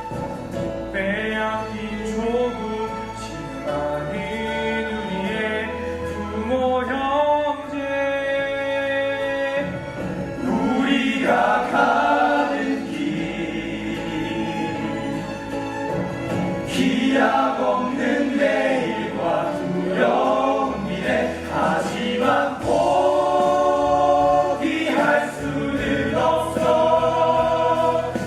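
Several voices singing a song together in harmony over instrumental accompaniment with a steady low bass.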